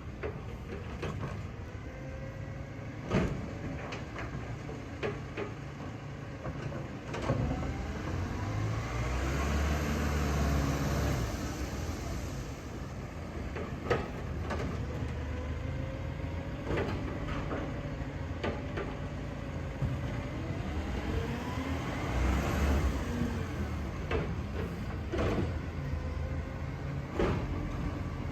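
Garbage truck engine running, speeding up twice as it works its hydraulics, with a rising and falling whine. Sharp clanks and knocks come at intervals throughout.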